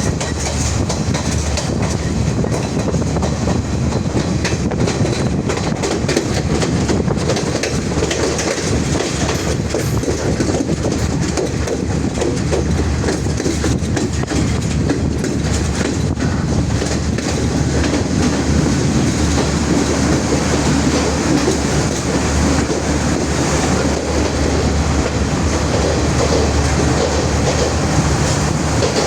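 Train running along the track: a steady rumble and rush with the wheels clicking over the rails.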